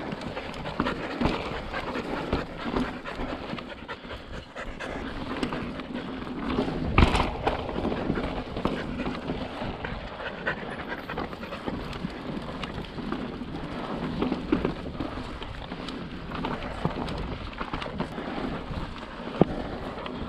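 A dog panting steadily, with one sharp knock about seven seconds in.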